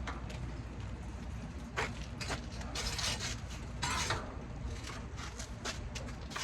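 Irregular scrapes and clinks of metal parts and tools being handled, loudest a couple of seconds in, over a steady low hum.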